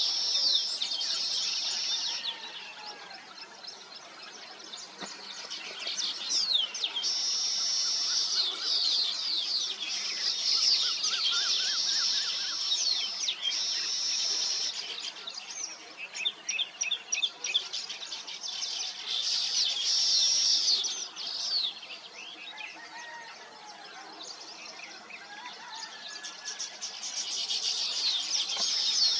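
Weaver birds chattering at their nests: bouts of dense, high-pitched chirping made of many quick sweeping notes, easing into quieter lulls a few seconds in and again late on before building back up.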